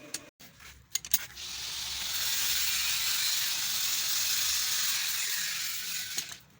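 A few sharp clicks, then a steady, loud hiss lasting about five seconds that stops shortly before the end.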